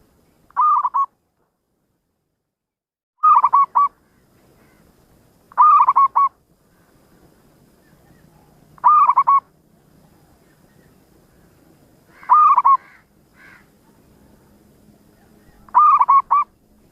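Zebra dove (perkutut) cooing: six short calls about three seconds apart, each a quick run of two or three clipped notes.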